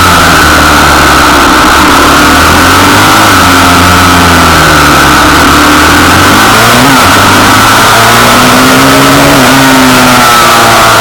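Pitbike engine running hard, its pitch rising and falling every few seconds as it revs up and eases off. Very loud, right at the limit of the recording.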